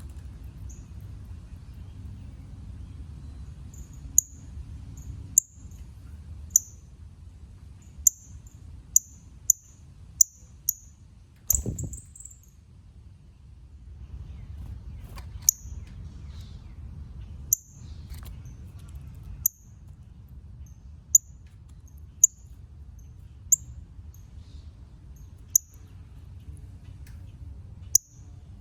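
Northern cardinal giving sharp, high chip calls, one every second or two, over a steady low rumble. A single louder thump about eleven seconds in.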